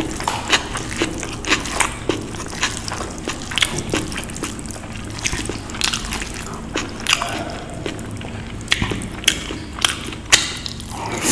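Close-up chewing and lip smacking of a mouthful of spiced vegetable rice eaten by hand, with many irregular wet clicks, several a second. The fingers squish and scoop the rice on the plate between mouthfuls.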